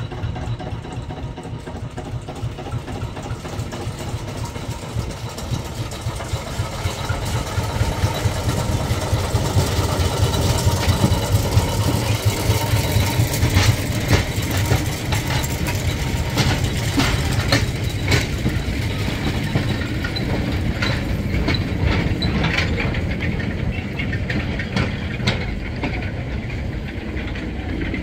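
Small narrow-gauge railway locomotive's engine running as it hauls a train of carriages past, growing louder over the first ten seconds or so. From about halfway on, the carriage wheels add a run of sharp clicks on the track.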